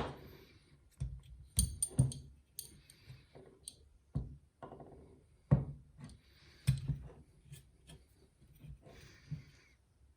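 Light clinks, taps and short scrapes of metal model-turbine parts being handled and turned over by hand during disassembly, a dozen or so scattered knocks with a few brief rubbing sounds between them.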